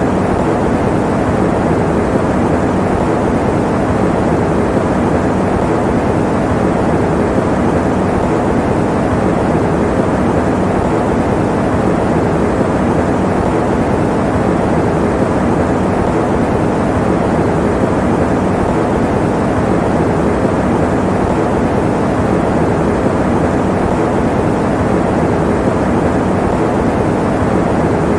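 Electric fan running steadily: an even, unchanging whoosh of moving air, deepest and strongest in the low and middle range, used as white noise for sleep.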